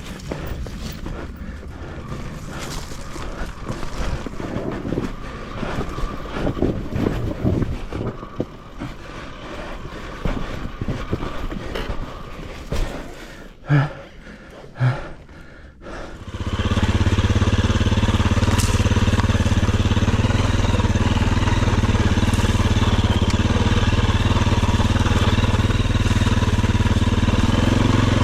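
Scuffs and knocks, then a little over halfway through a dirt bike's single-cylinder engine starts and runs steadily.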